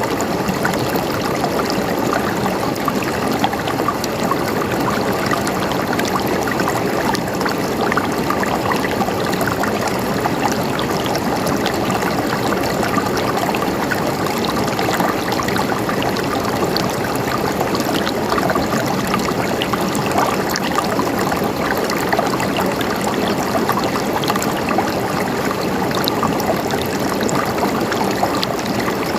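River water flowing over stones, a steady rushing and babbling with fine splashes.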